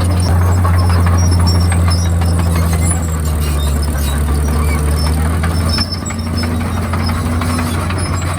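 A Komatsu D51PX bulldozer's diesel engine running steadily under load, with scattered short high squeaks over the drone. The level eases slightly about three seconds in and again near six seconds.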